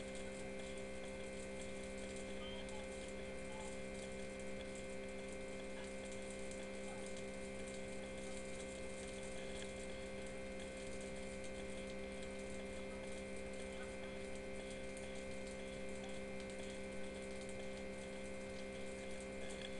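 A steady hum made of several fixed tones, over an even faint hiss.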